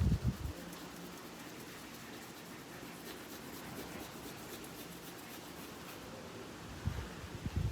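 Faint scratching of coloring on paper, with dull low thumps at the start and again near the end.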